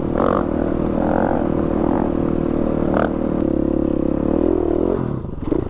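Dirt bike engine running at steady revs under the rider. The revs rise briefly a little after four seconds, then the engine drops off as the throttle closes near the end.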